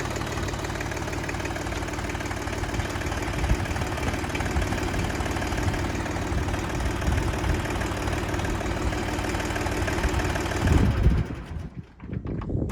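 Siromer 304 tractor's diesel engine running steadily at idle, restarted after its fuel system was bled following running out of fuel; near the end it is shut off and runs down.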